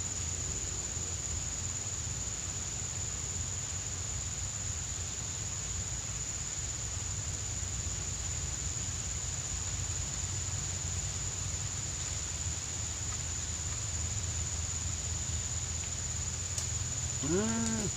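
A steady, unbroken high-pitched insect trill, such as a cricket, over a low steady rumble.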